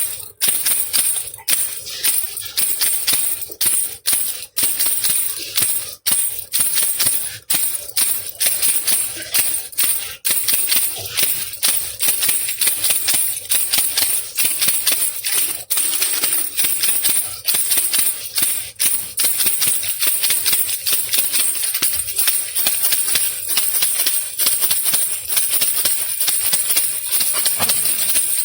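Handheld baby rattle (khulkhula) shaken over and over. The beads make a bright rattling in a quick, even rhythm of about two shakes a second, with the shakes running closer together in the second half.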